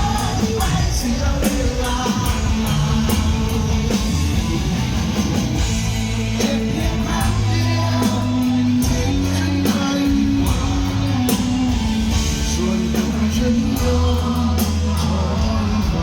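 Rock music: electric guitar, bass and drums playing, with a singing voice.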